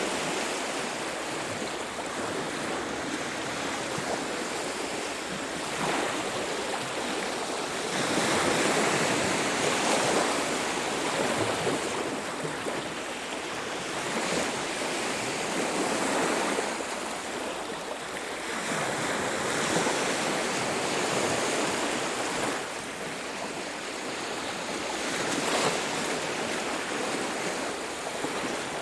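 Sea waves breaking and washing up a beach as a steady rush of surf that swells louder every few seconds.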